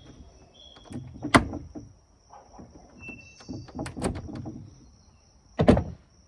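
Three sharp knocks, the loudest about a second in and near the end, among quieter clatter, with birds chirping faintly in the background.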